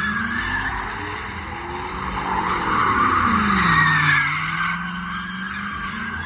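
A car doing a burnout: the engine revs hard and the tyres squeal. The squeal is loudest about three to four seconds in, as the engine note dips and then holds steady.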